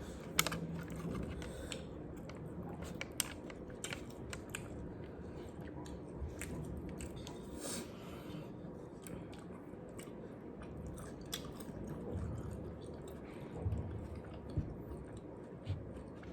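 A person chewing food with the mouth close to the microphone, with scattered short clicks and smacks.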